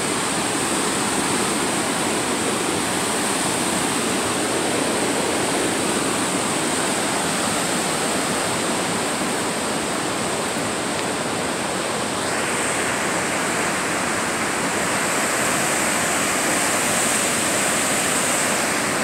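Rushing white water of a large river waterfall and rapids, a steady roar of falling water that turns hissier about twelve seconds in.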